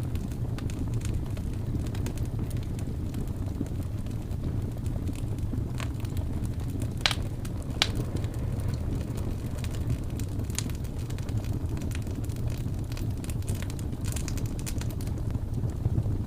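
Wood fire crackling in a fireplace, with scattered small pops and two sharper, louder ones a little before halfway, over a steady low rush of blizzard wind.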